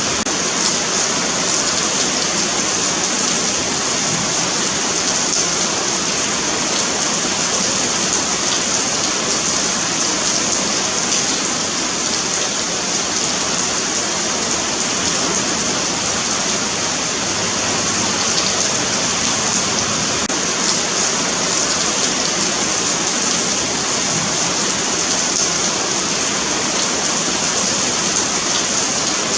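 Steady rain falling on a paved sidewalk, a continuous hiss of many drops striking the pavement.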